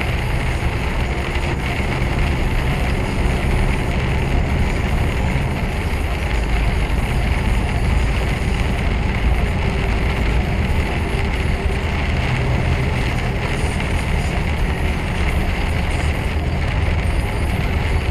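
Steady drone inside a lorry's cab on the move: low engine hum under continuous road noise.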